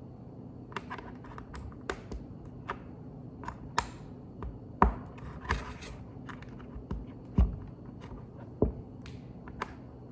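Plastic Lego pieces being picked up and fitted together: irregular sharp clicks and taps with some light scraping, a few louder knocks in the second half.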